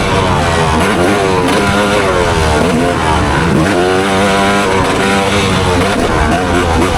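Motocross bike engine ridden hard, revving up and falling off again and again, its pitch climbing and dropping with the throttle and gear changes.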